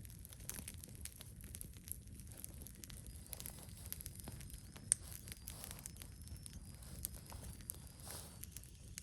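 Wood fire crackling, with frequent small irregular pops and one sharper pop about five seconds in, over a low steady rumble. A faint thin high whistle comes in after a few seconds and fades near the end.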